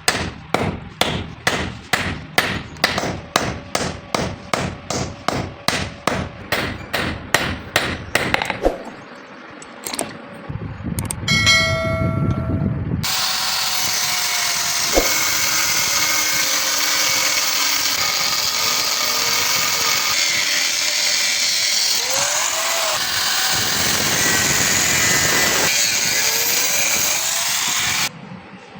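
Hand-hammer blows on hot steel, about three a second, for the first nine seconds or so, as the scrap hammer head is forged into an adze. Then, after a short lull and a brief pitched hum, a loud steady machine noise runs for about fifteen seconds and cuts off suddenly near the end.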